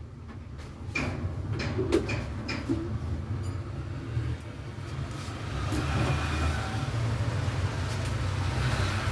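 Low steady rumble of road traffic, swelling about halfway through, with a few light knocks between one and three seconds in.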